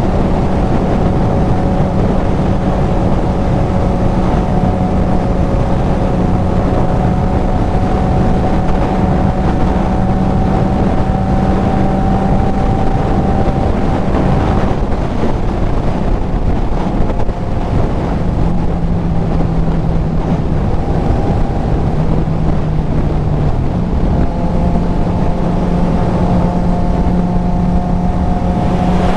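Kawasaki Z900's inline-four engine through a CS Racing full exhaust, running at steady cruising revs with heavy wind buffeting on the helmet mic. The engine note drops lower for several seconds past the middle, then climbs back.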